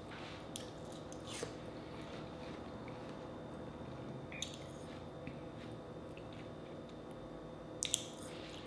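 A person chewing a bite of watermelon, soft wet squishing with a few faint mouth clicks, and two sharper mouth smacks just before the end.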